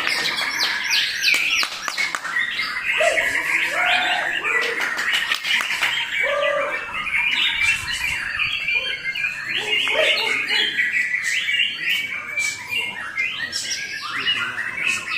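White-rumped shama (murai batu) singing continuously: a rapid, varied run of whistled and chattering phrases, with some lower whistled notes mixed in during the middle, and sharp clicking notes throughout.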